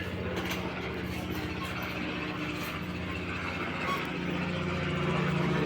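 A motor engine running steadily with a low hum that grows a little louder about four seconds in.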